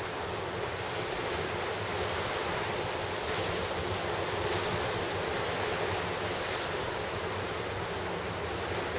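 Ocean surf breaking on the shore, a continuous wash of waves with a gentle swell in loudness midway, with wind on the microphone.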